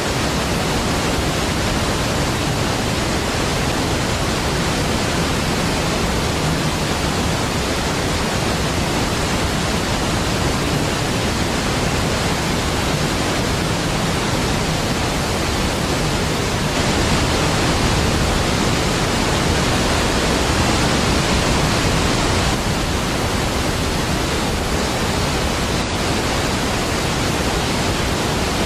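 Large waterfall: a steady, dense roar of falling water, swelling a little louder for a few seconds past the middle.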